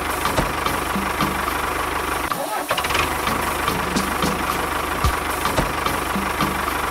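A small motor running steadily with a fast, even beat, briefly dropping out about two and a half seconds in.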